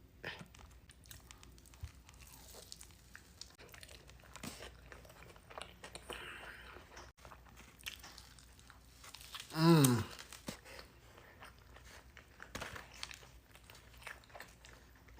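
Close-miked chewing and crunching of food, with small mouth clicks and crackles. About ten seconds in, a short voiced hum falls in pitch.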